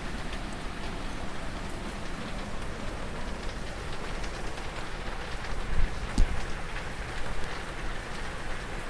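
Hurricane rain and wind making a steady rushing hiss, with a couple of low thumps and one sharp knock about six seconds in.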